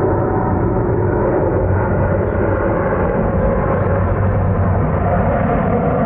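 Widebody jet airliner's engines, a loud steady rumble with a low hum underneath.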